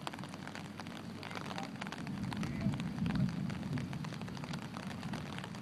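Rain falling and pattering on surfaces, with a low rumble that swells briefly in the middle.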